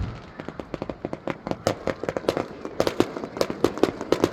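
Fireworks going off: a rapid, irregular run of sharp pops, many a second.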